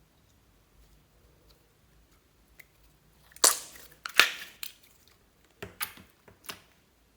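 Close-up slime-making handling sounds: several sharp, crisp crunches and clicks, grouped about halfway through, then a few more near the end.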